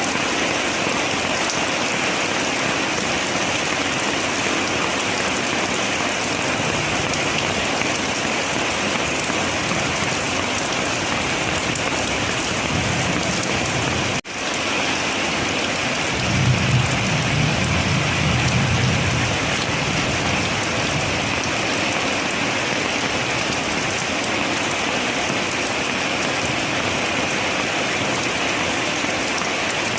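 Heavy rain falling steadily, a dense, even hiss of drops. The sound cuts out for an instant about fourteen seconds in, and a few seconds later a low rumble rises under the rain for a few seconds.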